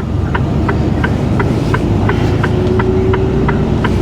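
A lorry's turn indicator ticking steadily, about three clicks a second, over the truck's engine and road drone inside the cab.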